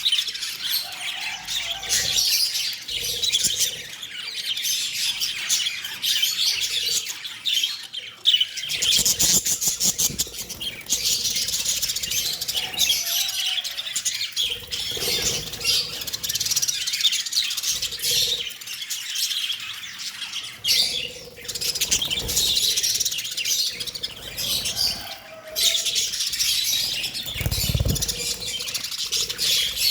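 Small pet parrots chattering with rapid high chirps and squawks that run on without pause, with a low thump near the end.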